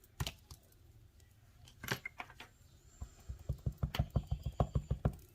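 A rubber stamp on an acrylic block being dabbed quickly and repeatedly onto an ink pad to ink it: a run of soft taps, about six a second, starting about halfway through, after a couple of light clicks.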